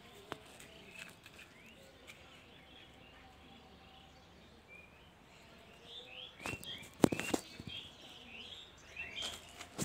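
Small birds chirping, short high calls, scattered at first and busier in the second half. A few sharp clicks come about six and a half to seven and a half seconds in.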